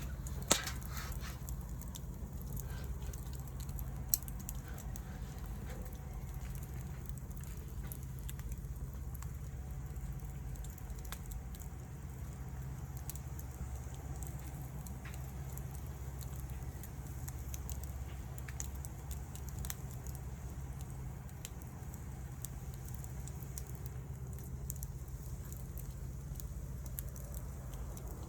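Wood fire burning, with soft scattered crackles and a couple of sharper pops in the first few seconds over a steady low rumble.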